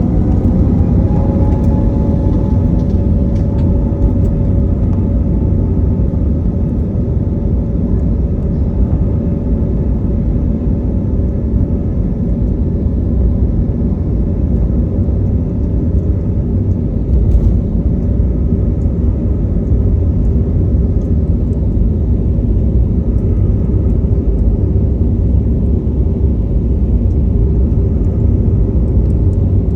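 Airplane engines at takeoff power: a loud, steady low rumble with a whine that rises slightly in the first couple of seconds, then holds.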